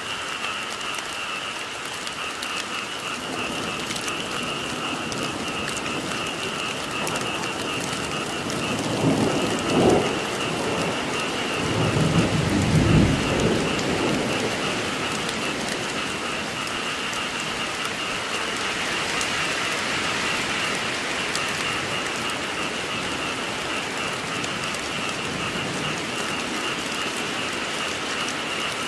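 Steady rain pattering, with two low rolls of thunder rumbling up about a third of the way in, the second longer and louder.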